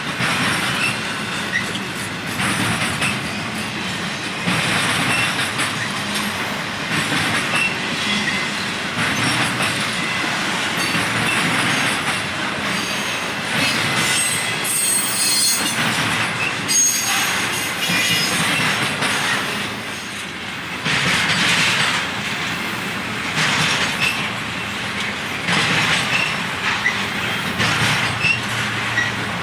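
Freight train cars rolling past on steel rails, wheels clacking over the rail joints, with high wheel squeals now and then; the strongest squeal comes about halfway through.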